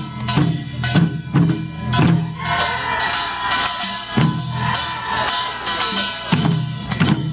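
Korean pungmul percussion band playing: drums struck in a driving rhythm, with ringing tones that waver in pitch above them.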